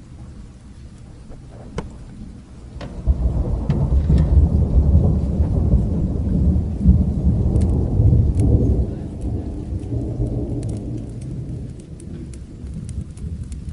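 Rain falling steadily while a long roll of thunder rumbles in about three seconds in, peaks through the middle and fades away. Sharp crackles from a fire are scattered throughout.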